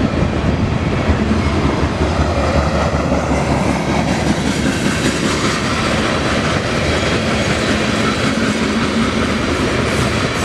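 Loaded coal cars of a freight train rolling past, a steady, loud noise of steel wheels running on the rails.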